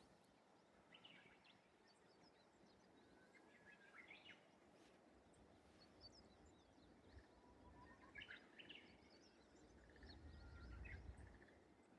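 Faint birdsong in quiet rural morning air: song phrases of a Japanese bush warbler, the one near the middle opening on a low whistle and breaking into quicker notes, with small birds chirping high in between. A low rumble swells briefly near the end.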